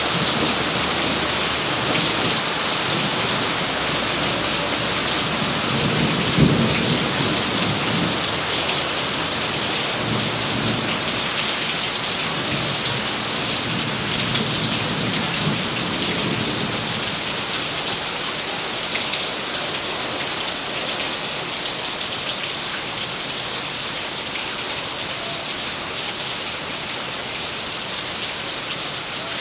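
Steady heavy rain falling on foliage, paving and roofs. Thunder rolls in with a sharper clap about six seconds in, then rumbles low for around ten seconds before fading back under the rain.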